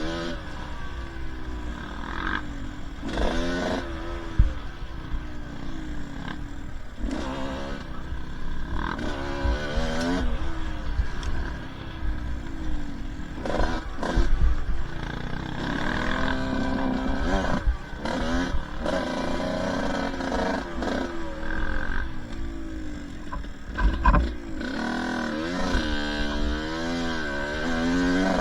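Two-stroke dirt bike engine revving up and down again and again while riding a trail, its pitch rising and falling every second or two. Sharp knocks and thumps come through now and then, the loudest about four seconds in and again near the end.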